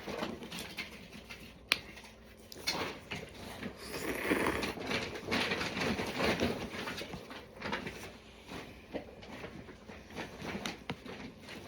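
Eating and handling sounds of cup noodles: scattered small clicks, with a denser stretch of noisy mouth and handling sound about four seconds in.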